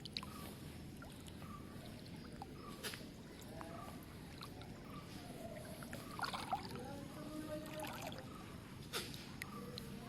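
Faint splashing and trickling of floodwater, with a few sharp clicks.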